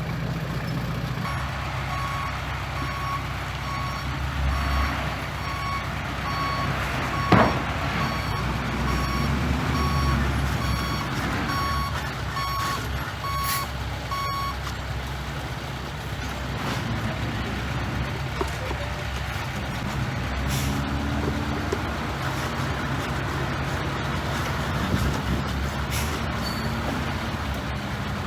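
A heavy construction vehicle's reversing alarm beeps about once a second over its running diesel engine. The beeping stops about halfway through while the engine keeps running. There is one sharp knock about a quarter of the way in.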